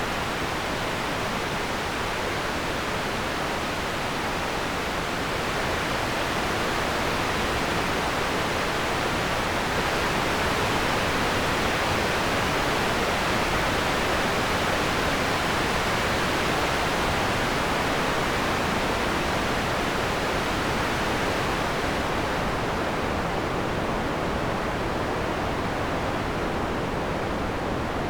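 Synthesized wind made from filtered noise in Max: a steady rushing hiss with no gusts or whistles, swelling a little in the middle and losing some of its highest hiss toward the end.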